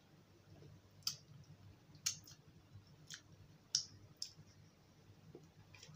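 Close-up mouth sounds of chewing: about five sharp, wet clicks and lip smacks, roughly a second apart, over a faint low hum.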